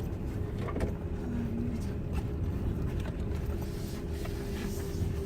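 Car running, heard from inside the cabin: a steady low rumble with a faint steady hum and a few light clicks.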